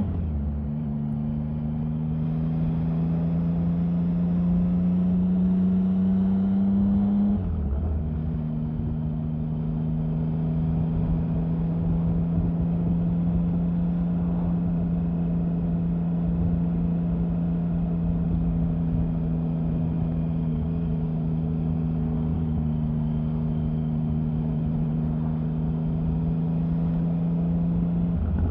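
Triumph Sprint 1050's three-cylinder engine running under way. Its note climbs slowly for about seven seconds, breaks off briefly, then settles and holds steady at a lower pitch.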